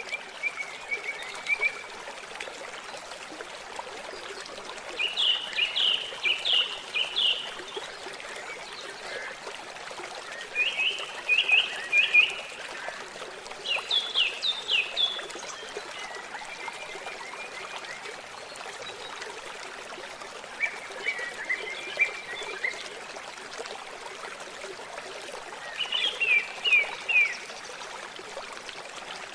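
Water trickling steadily at a lake's edge. Short runs of rapid, high chirping notes repeat every few seconds over it.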